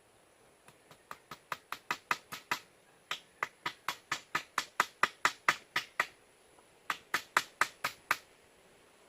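A quick run of sharp knocks or taps, about four to five a second, growing louder at first and breaking off briefly twice.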